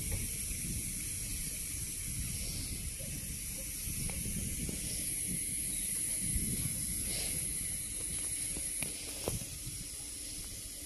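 Freight train of high-sided open wagons rolling past: a steady low rumble of wheels on rail under a high hiss, with a few sharp clacks.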